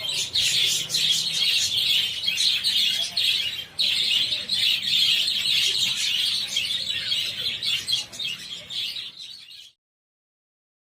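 A large flock of budgerigars chattering and chirping continuously, many birds at once, which cuts off suddenly near the end.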